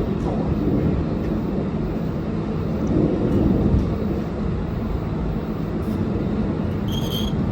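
R142A subway train departing: steady rumble of wheels on rail and a low motor hum, swelling about three seconds in. A brief high-pitched squeal comes near the end.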